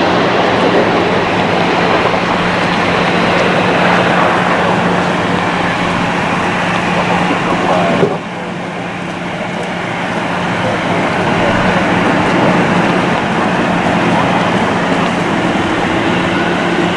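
Jet airliner engine noise, a steady loud roar from an Airbus A330-300 on the runway. It drops suddenly about eight seconds in, then builds again.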